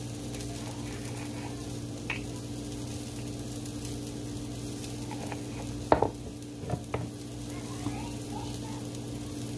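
Chickpeas frying in olive oil in a pan, sizzling steadily over a steady low hum. A few sharp clicks stand out, one about two seconds in and a cluster around six to seven seconds.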